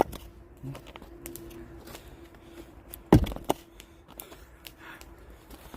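An axe strikes a firewood log once about three seconds in, followed a moment later by a second, lighter knock of wood.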